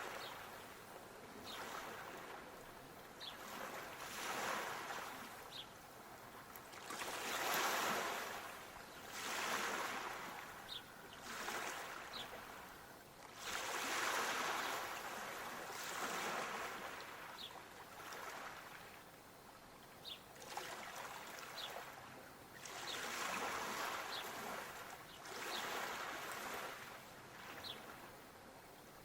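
Small waves lapping: surges of rushing water that swell and fade every couple of seconds. Faint short high ticks come now and then.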